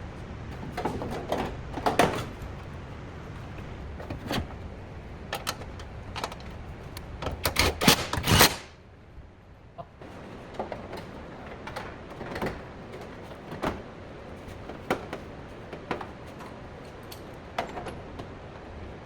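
Irregular knocks and clacks of hard objects being handled, with a loud cluster of knocks about eight seconds in, followed by a brief quieter stretch.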